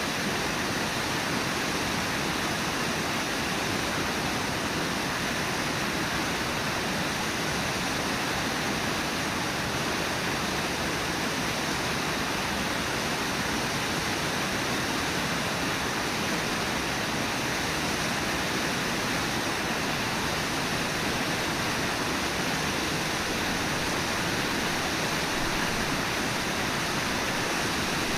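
Steady rush of water pouring over Brooks Falls on the Brooks River.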